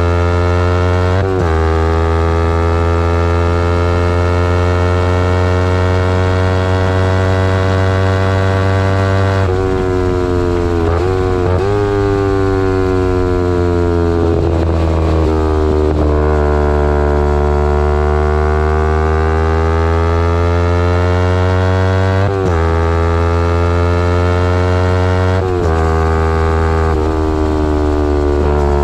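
2011 Kawasaki Ninja 250R's parallel-twin engine through a full Graves race exhaust, running under way. Its note slowly rises and falls, broken several times by brief dips and jumps in pitch as gears are changed and the throttle is worked.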